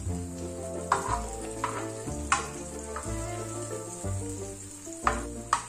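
Egg, tomato and onion frying and sizzling in a pan while a metal spoon stirs them, with a few sharp clicks of the spoon against the pan. Background music with held chords plays over it.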